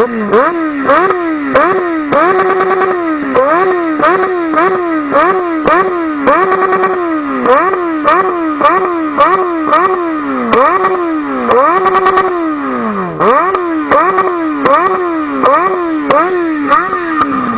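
Yamaha XJ6 600 cc inline-four motorcycle engine revved in quick, repeated throttle blips, its pitch rising sharply and falling back about once or twice a second. A few revs are held briefly at the top, and once about three quarters of the way through it falls further, toward idle.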